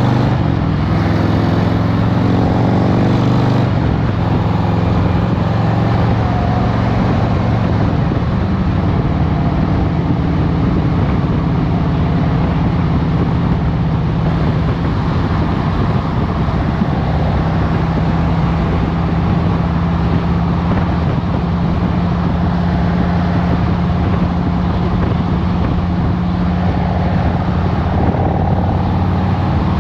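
2023 Harley-Davidson Road Glide Special's Milwaukee-Eight 114 V-twin running under way in traffic. The engine note changes about three and a half seconds in, then holds steady.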